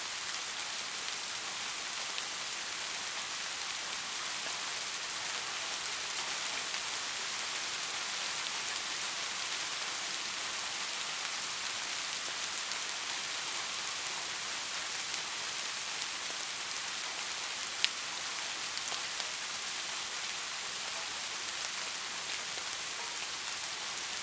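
Steady rain falling, a dense even hiss with scattered individual drop ticks, and one sharper, louder drop hit about three-quarters of the way through.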